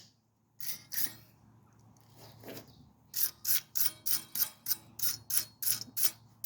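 A hand tool worked in quick, even strokes on steel brake caliper hardware, about three strokes a second for roughly three seconds after a few scattered clicks, as the part is cleaned.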